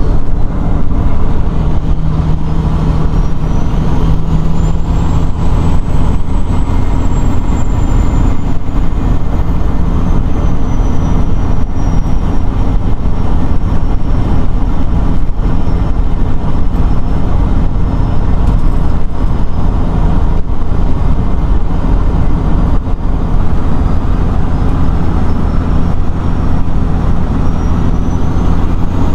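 The 12.7-litre Detroit diesel of a 1997 Peterbilt 378 running steadily. A faint high whistle rises and falls slowly over the engine sound.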